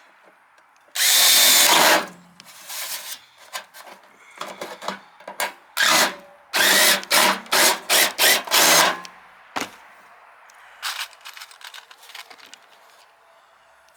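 Power drill boring a hole for a rivet: one long run, then a string of short trigger bursts.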